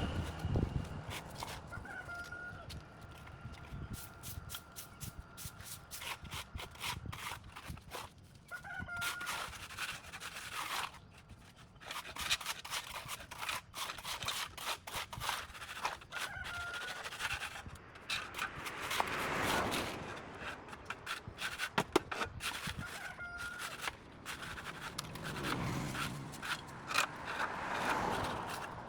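Repeated sharp scraping and clicking strokes of work on the overgrown sidewalk, with a short bird call repeating about every seven seconds.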